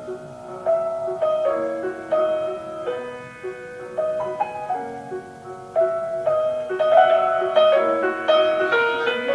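Solo piano playing a classical piece: chords and a melody of sharply struck notes that ring on, growing fuller and louder in the second half.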